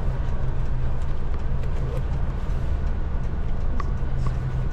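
Steady low rumble inside a moving vehicle, with a few light clicks and rattles.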